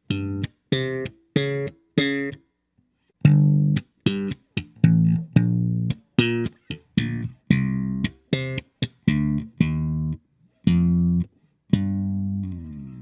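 Electric bass guitar played solo: a funk line of short, separated notes with sharp attacks and brief silences between them, ending with a note that slides down in pitch.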